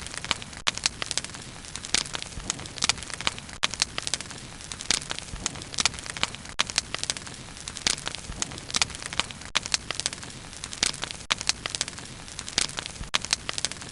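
Wood bonfire burning, with dense, irregular crackles and pops over a steady low hiss.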